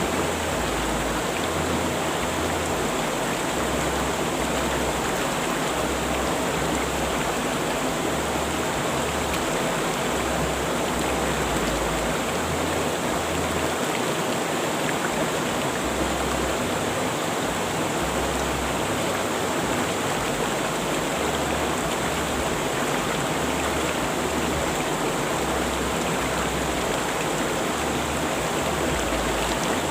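River water rushing steadily over rocks: an even, unbroken hiss.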